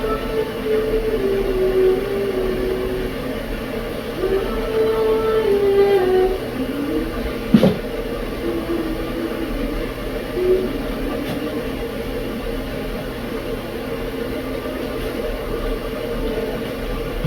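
Tea kettle on the boil, a steady hiss with a low, wavering whistle that comes and goes over the first ten seconds or so. A sharp click about halfway through.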